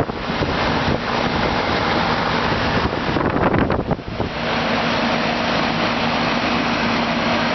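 1996 Janitrol central air-conditioner condensing unit running: the fan's rush of air with a steady hum underneath.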